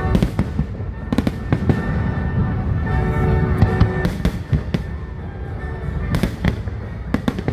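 Fireworks finale: a rapid, continuous barrage of aerial shell bursts, sharp bangs and crackles over a dense low rumble.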